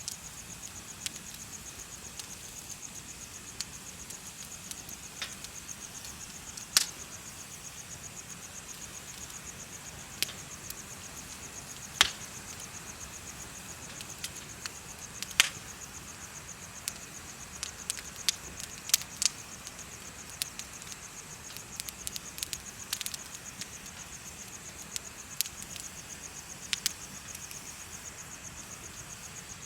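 Bonfire crackling with irregular sharp pops, over insects chirping in a steady, high, fast-pulsing trill.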